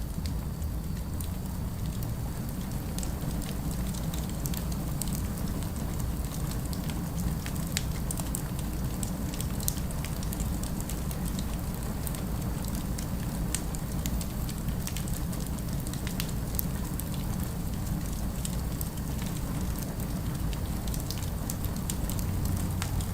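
Fireplace crackle: scattered small pops and snaps over a steady low rumble.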